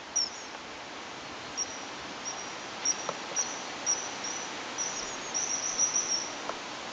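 Outdoor countryside ambience: a steady hiss, with a small bird giving short, high chirps, scattered at first and then a quick run of them about five seconds in.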